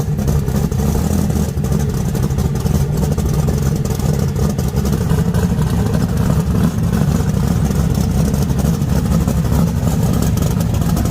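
A car engine running steadily at low revs with a choppy low-pitched rumble and no revving.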